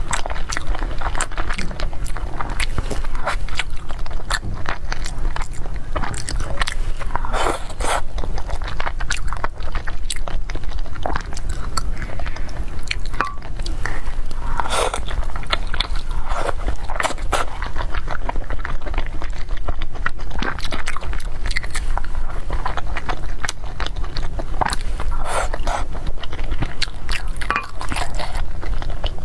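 Close-miked chewing and wet mouth sounds of eating soft braised pork belly, with many short smacks and clicks, over a steady low hum.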